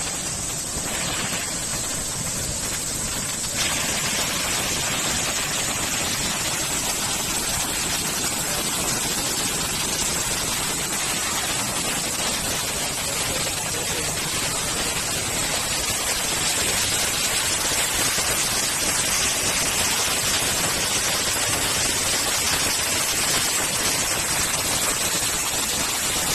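Waterfall pouring into a pool: a steady rushing of water that gets a little louder about four seconds in.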